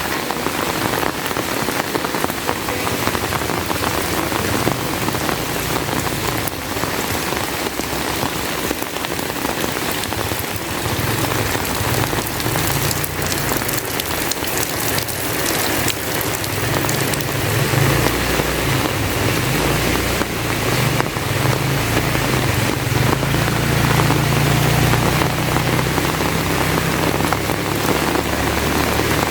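Heavy rain pouring steadily, with a dense patter of drops. A deep low rumble joins it in the second half.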